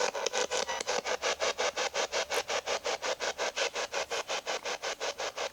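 Spirit box (ghost box) sweeping through radio stations, giving a rapid, even run of static pulses, about seven a second.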